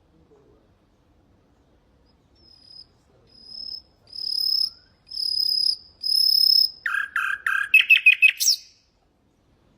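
Nightingale singing one song phrase: a run of repeated high whistled notes that grow steadily louder, then a quick series of lower notes ending in a sharp upward flourish, after which the bird falls silent.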